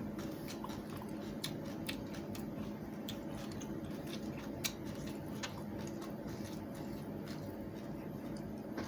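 Someone chewing crunchy watermelon rind: scattered crisp crunches and wet chewing over a steady low hum.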